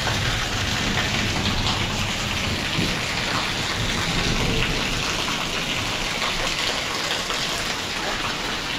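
Heavy rain falling steadily and splashing onto a concrete courtyard covered in standing water.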